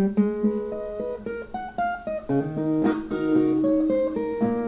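Brazilian viola (ten-string folk guitar) playing an instrumental interlude: a melody of single plucked notes over a lower bass line, with a couple of strummed chords in the second half.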